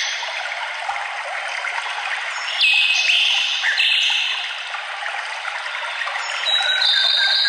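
Running water trickling steadily, with birds singing over it: a run of bright song about three seconds in and high notes again near the end.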